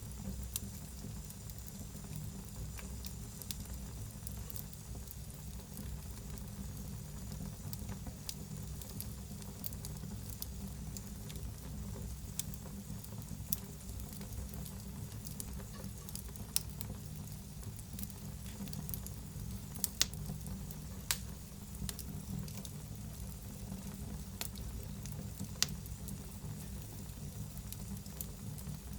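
Wood fire in a fireplace burning with a steady low rumble and hiss, and scattered sharp crackles and pops, a few of them louder.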